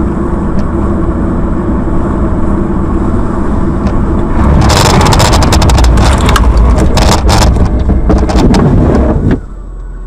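A car running with steady engine and road noise. About four and a half seconds in it turns much louder, with a long stretch of rapid clattering knocks and rattling lasting about five seconds, then it drops back near the end.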